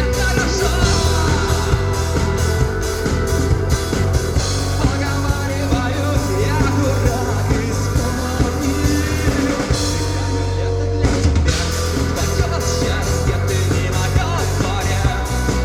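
Rock band playing live, drum kit, bass and guitars together, with a short drop-out about ten and a half seconds in before the full band comes back in.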